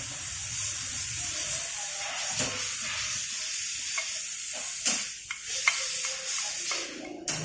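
A steady hiss with a few light clicks and knocks scattered through it; it stops suddenly near the end.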